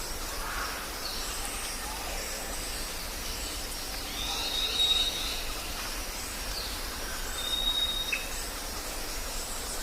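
Jungle ambience: birds calling over a steady background hiss, with a high, level whistle held for about a second near the middle and again later, among scattered short chirps.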